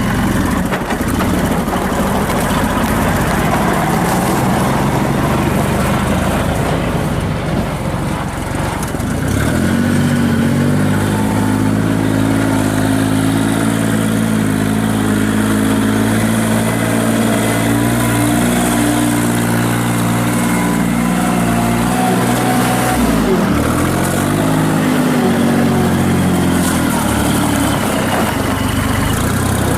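Kubota L39 tractor's diesel engine running, settling at a steady higher speed about ten seconds in. Its speed dips briefly and recovers about three quarters of the way through.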